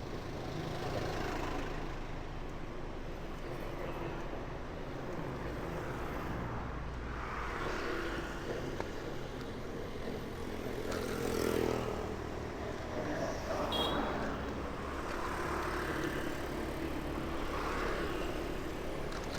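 City street traffic: a steady rumble of engines, with vehicles passing close by in several swells, about 8, 12, 14 and 18 seconds in. A brief high beep sounds about 14 seconds in.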